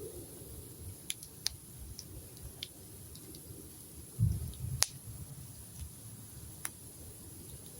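Wood campfire crackling, with a handful of sharp, scattered pops. A brief low rumble about four seconds in is the loudest sound.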